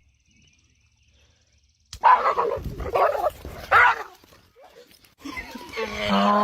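A dog barking, about three barks starting roughly two seconds in after a short silent gap. Near the end a long, held pitched sound begins.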